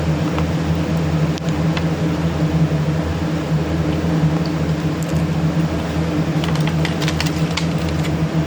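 Steady mechanical hum of a fan-like motor, holding several steady low tones. A quick run of small clicks and taps comes about six and a half seconds in.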